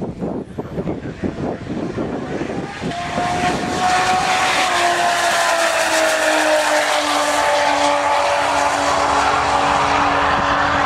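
Turbocharged Nissan RB30 straight-six in a Holden VL drag car, running hard on a drag strip. Choppy low pulses give way about three seconds in to a loud sustained run, its pitch sliding slowly down.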